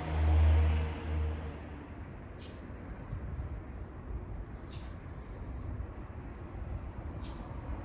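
A passing vehicle's low engine drone, loudest in the first second and fading by about a second and a half in. Then three short, high bird chirps, about two and a half seconds apart, over a steady low background hum.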